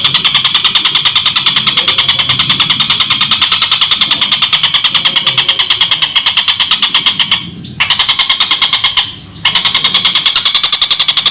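A tengkek buto kingfisher giving a long, rapid chattering call of harsh notes in a fast, even run. The run pauses briefly twice near the end.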